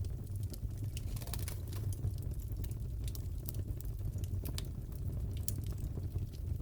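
Wood fire crackling in a fireplace: scattered, irregular sharp pops and snaps over a steady low rumble.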